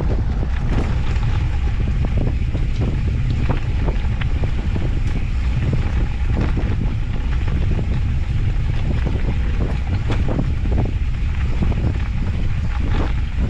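Loud wind rumble on the microphone of an off-road handcycle riding a dirt mountain-bike trail, with tyre noise and scattered clicks and knocks from the bike over the rough ground.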